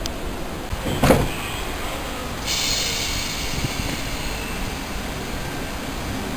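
Greater Anglia electric multiple-unit train running alongside the platform, with a high whine that starts suddenly about two and a half seconds in and fades away; a single thump about a second in.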